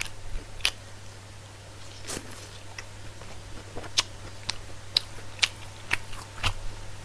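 Close-miked chewing of fried chicken: irregular crisp crunches and mouth clicks, over a steady low hum.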